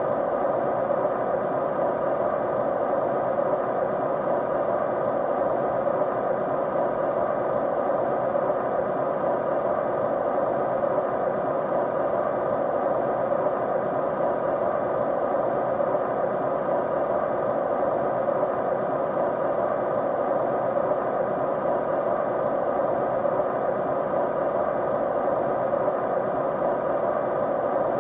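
Steady white-noise track: an even, unchanging hiss centred in the middle of the range, with a few faint steady tones in it.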